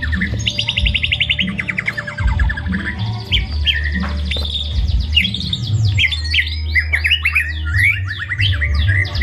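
White-rumped shama singing a rapid, varied song of fast trills, chirps and sweeping whistles, rich in imitated phrases, over a low steady hum.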